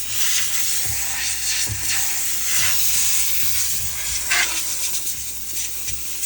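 Handheld steam cleaner jetting steam onto the refrigerator: a steady hiss that starts abruptly.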